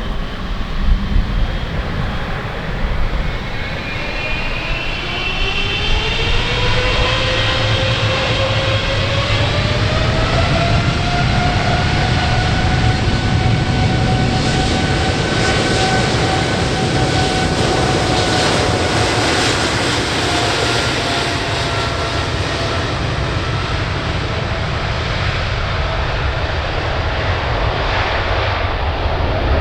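Boeing 777F's twin GE90 turbofans spooling up for the takeoff roll: a whine rises in pitch over several seconds, then levels off at takeoff thrust over a loud, deep rumble, the whine dropping slightly in pitch late on.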